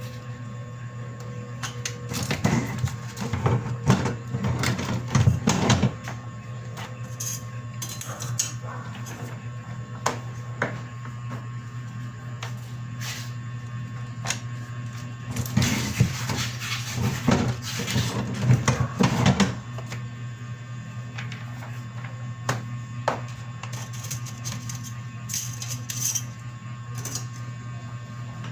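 A printer running with a steady hum, with two spells of clattering feed-and-print noise lasting a few seconds each, one near the start and one past the middle.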